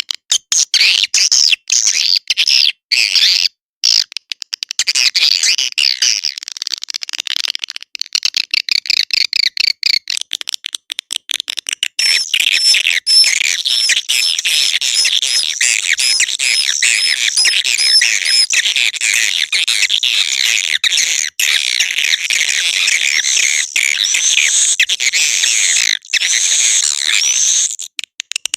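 Swiftlet lure call: dense swiftlet twittering and chirping over rapid clicks, played to draw swiftlets into a nesting house. About twelve seconds in it grows fuller, with a run of repeated high chirps.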